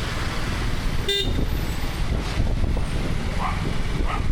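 KTM 250 Adventure's single-cylinder engine running under way, with wind and road noise on a helmet-mounted camera. A vehicle horn gives one short toot about a second in.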